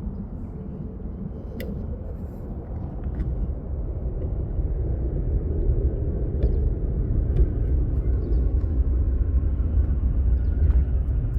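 Transavia Boeing 737-800 on approach to land, its twin CFM56 jet engines heard as a low rumble that grows steadily louder as the airliner comes closer.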